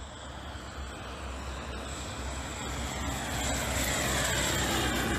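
A vehicle's engine and road noise, growing steadily louder as it approaches, with a whine that slides down in pitch as it passes.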